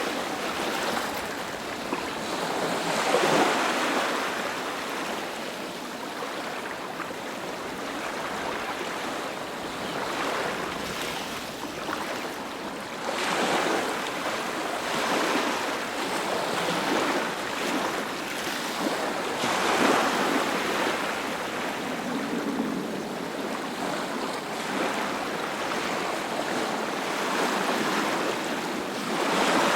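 Sea waves breaking and washing up the shore in a steady rush of surf, with a louder wave surging every several seconds.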